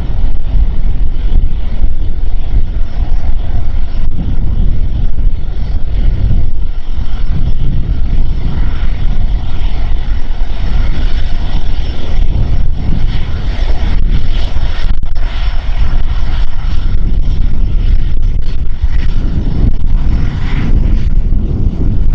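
Aircraft engines at takeoff power on a departing airliner, mixed with strong gusting wind rumbling on the microphone.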